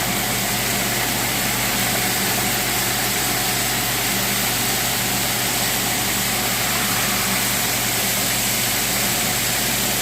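Chicken frying in a pan just after being flipped: a steady hiss with an even hum under it.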